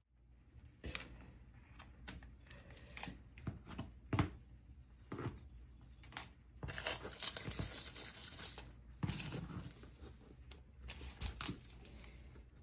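Moluccan cockatoo crunching and shredding a dried rose with its beak: irregular dry crackles and snaps, thickening into a denser crackling rustle from about seven to eight and a half seconds in.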